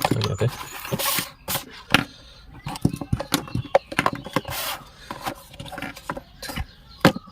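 Headphone packaging being handled and opened: an irregular run of cardboard and plastic rustles, scrapes and sharp clicks, with a couple of louder rustles about a second in and again past the middle.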